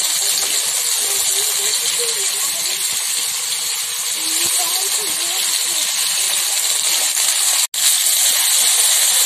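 Vegetables sizzling steadily in hot mustard oil in a wok as fresh pieces are tipped in. The sound cuts out for an instant about three quarters of the way through.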